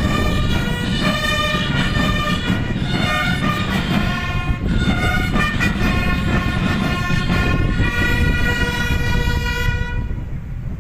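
Brass band playing slow, sustained chords that change pitch every second or so, with heavy wind buffeting the microphone underneath.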